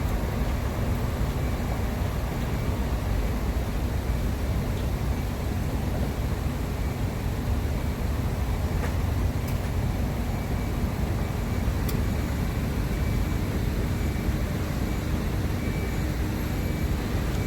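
Steady low rumble of road traffic and heavy vehicle engines, unchanging throughout.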